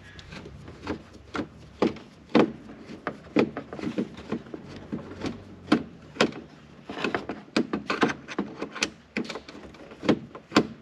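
Irregular clicks and knocks of hands and a screwdriver working on plastic dashboard trim around the instrument cluster. There are a few sharper knocks along the way.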